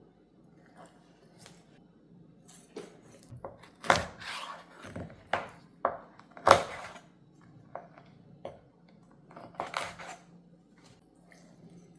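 Household objects being handled and set down: an irregular scatter of knocks, clinks and scrapes, loudest about four and six and a half seconds in, over a faint steady hum.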